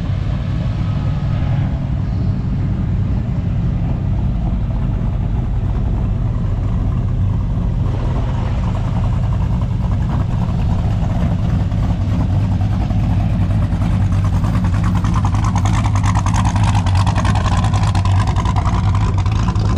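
A car engine running steadily throughout, with a little extra higher-pitched sound in its second half.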